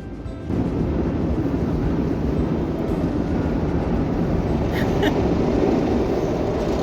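Automatic car wash machinery running, heard from inside the car's cabin: a steady, loud rush that starts suddenly about half a second in, with two faint clicks about five seconds in.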